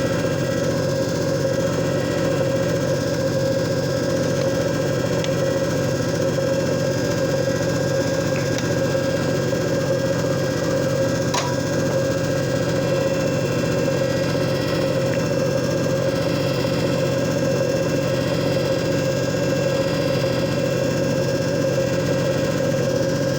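JFJ Easy Pro disc repair machine running steadily, its motor giving a constant hum with a low rumble. One short click about halfway through.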